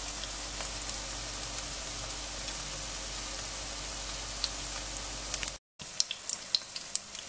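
Pumpkin fritters shallow-frying in vegetable oil over medium heat: a steady sizzling hiss with scattered small crackling pops. The sound cuts out for a moment about five and a half seconds in, then resumes with more frequent pops.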